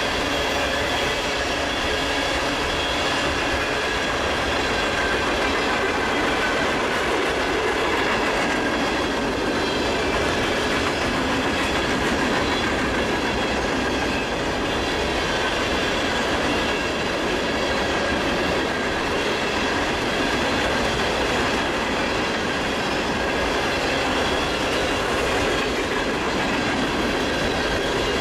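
Empty coal train's hopper cars rolling past at speed: steady wheel-on-rail noise with a high ringing tone over it.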